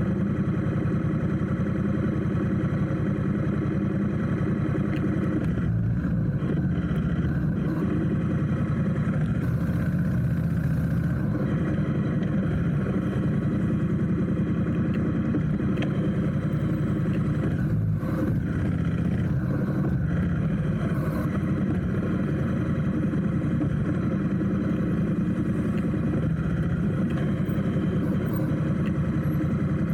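Motorcycle engine running steadily at low speed, a continuous rumble of rapid firing pulses.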